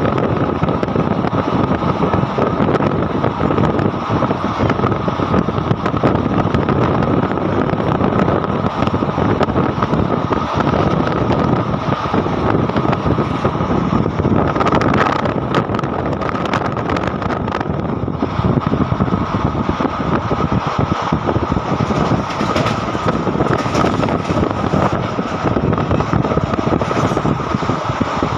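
Running noise of a moving passenger train heard from an open coach door: wheels rolling on the rails and wind rushing past, with a steady high whine throughout. Bursts of clatter come about halfway through and again near the end, as the wheels cross track joints and points.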